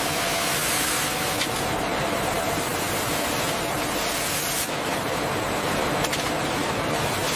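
A steady, even rushing hiss with no clear pitch or rhythm, like spraying water or a constant machine or air noise.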